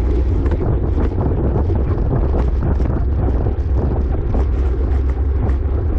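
Wind rushing over the microphone of a camera on a racing bicycle at speed, a loud steady low rumble with a rougher hiss above it.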